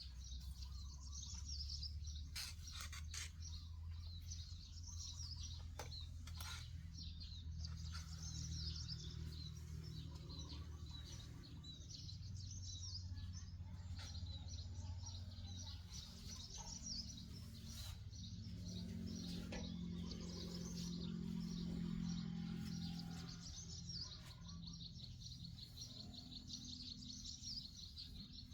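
Small birds chirping and calling continuously over a low steady hum. In the last few seconds a fast, even high trill joins in, like an insect.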